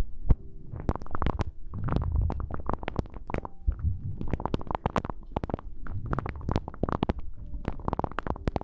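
ASMR rustling and rubbing right against the microphone: a dense, irregular run of soft crackles over muffled low thuds.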